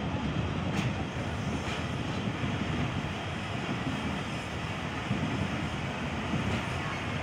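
Passenger train moving slowly along the track: a steady rumble of the coach and running gear, with a couple of faint clicks about a second and two seconds in.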